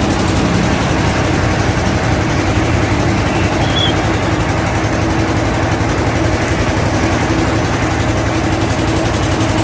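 Heavy truck diesel engine running steadily at low revs.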